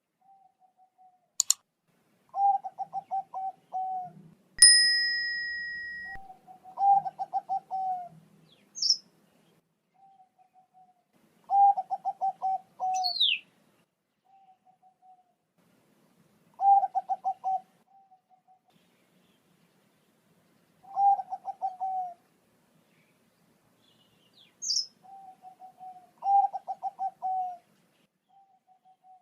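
Zebra dove (Bangkok perkutut) cooing: phrases of rapid, low, pulsed coos repeat about every four to five seconds. About four and a half seconds in, a single sharp bell-like ding rings out and fades, the loudest sound here. A few brief high chirps from another small bird come between the phrases.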